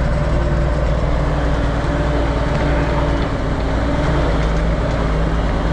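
Kenworth log truck's diesel engine running steadily while the loaded truck drives.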